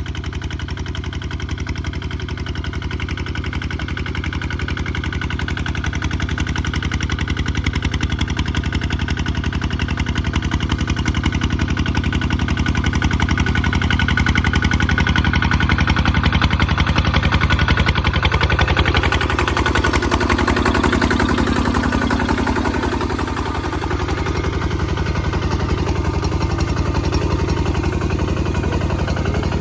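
Kubota ZT 155 DI tractor's single-cylinder diesel engine running steadily with a fast, even chug, working while plowing. About two thirds of the way through, the engine note shifts, dipping and rising again for a few seconds.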